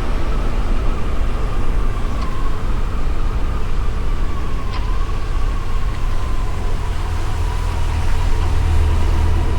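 Yamaha FJR1300 motorcycle running, a deep steady rumble with a constant hiss over it and a whine that sags slightly in pitch and starts rising again near the end.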